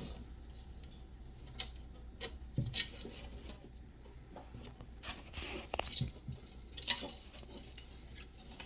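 Scattered faint scrapes, clicks and rustles of animals moving about in reptile enclosures, over a steady low hum.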